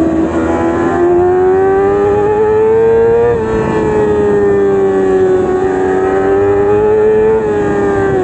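Yamaha R6 inline-four engine at high revs under racing acceleration, heard from on board. Its pitch climbs steadily for about three seconds, drops briefly, then holds high and drops again near the end.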